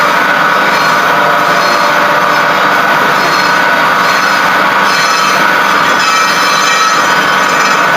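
A power tool or workshop machine running steadily under load, a dense rubbing, grinding noise with a steady high tone in it.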